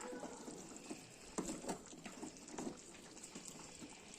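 Thick chicken curry gravy simmering in a pan, with a few soft bubbling pops about a third of the way in.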